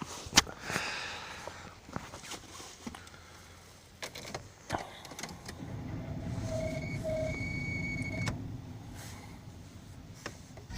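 Sharp clicks and knocks from inside a car, the loudest just after the start, then a steady low hum with two short beeps and a thin high tone for about two seconds, fading away: the ignition switched on before a diesel cold start, with no engine running yet.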